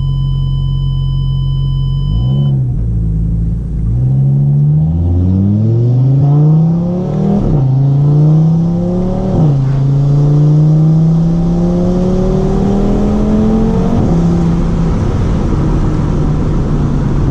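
Audi TT RS's turbocharged five-cylinder through an Ego X exhaust with its valves open, heard from inside the cabin with the windows down. It idles, blips once, then accelerates through the gears, the pitch climbing in each gear and dropping at each of three upshifts, before settling to a steady cruise.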